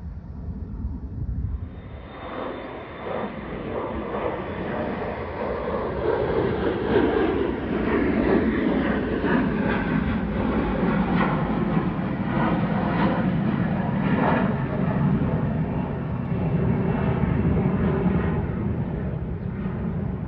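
Airplane engines at takeoff power during a departure. The noise swells over the first several seconds, with a faint high whine at first, then holds loud and steady.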